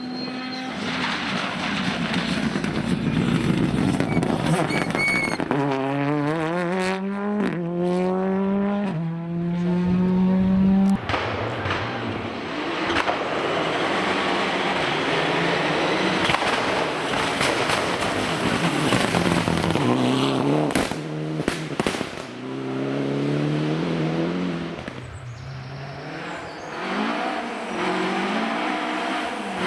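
Rally cars at full throttle, engines revving hard and shifting up through the gears with sharp drops in pitch at each change, twice. Between the two runs there is a loud rushing stretch of engine and tyre noise as a car passes.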